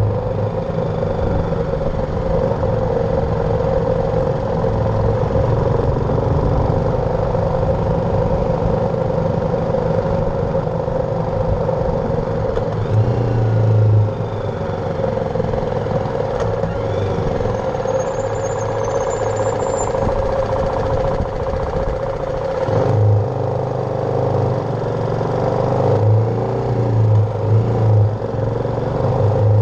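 BMW G310R's single-cylinder engine running as the motorcycle is ridden, its low drone swelling and easing as the throttle changes.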